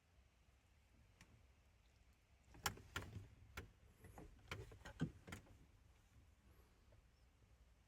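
Faint clicks and knocks of small objects being handled, about a dozen in a cluster lasting about three seconds, over a quiet low hum.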